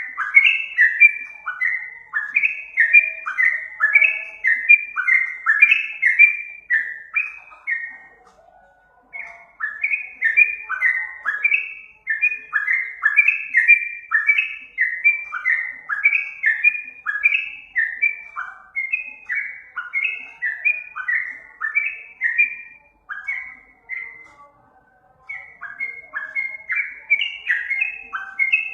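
Yellow-vented bulbul (trucukan) singing: quick, bubbly phrases of short falling notes, repeated almost without pause. There are two brief breaks, one about eight seconds in and one near twenty-four seconds. It is song played as a lure call for trapping the bird.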